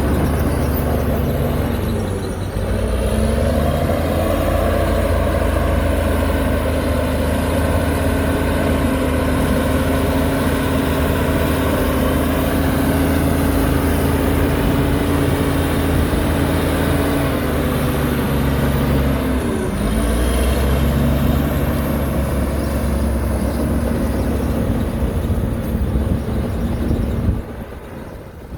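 Heavy diesel engine of an earthmoving machine running hard. Its pitch sags and recovers twice, as if lugging under load, and the sound drops away near the end.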